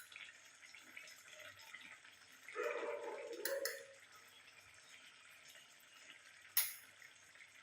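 Faint sizzling and bubbling of chicken curry reducing in a pan, with a short knock about six and a half seconds in.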